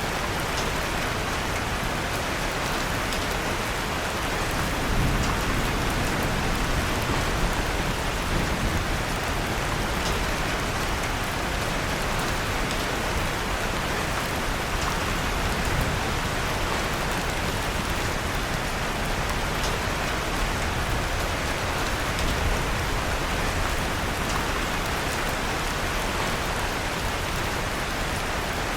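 Steady rain falling and pattering on a surface, with a few faint ticks that fit the crackle of a fireplace mixed in.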